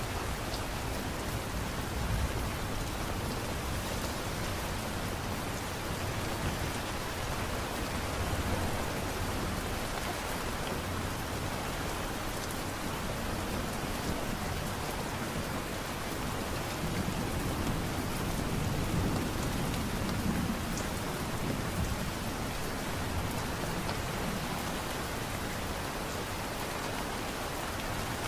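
Light rain falling steadily, an even patter with a soft low rumble that swells now and then.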